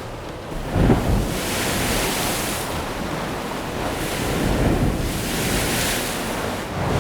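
Storm-driven surf rushing in waves, with strong wind buffeting the microphone. There is a heavy low surge about a second in, and the hiss of the water swells and eases several times.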